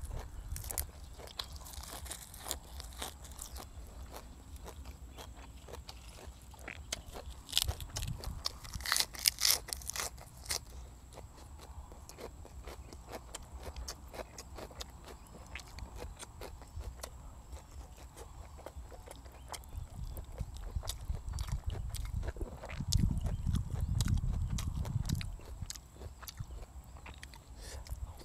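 Close-miked eating: wet chewing and biting of braised pork leg, noodles and fresh vegetables, with loud crunchy bites about 2 s in and again between about 7 and 10 s in. A low rumble runs for a few seconds about two-thirds of the way through.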